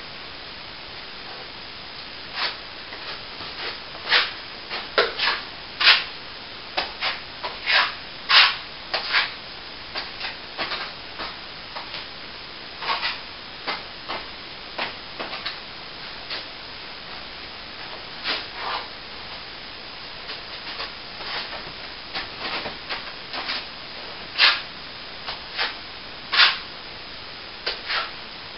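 A hand tool scraping and rubbing on a plaster wall in short, irregular strokes, over a steady faint hiss.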